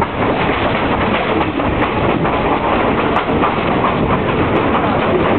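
Passenger train rolling along the track, heard from aboard an open-windowed car: steady wheel-and-rail running noise.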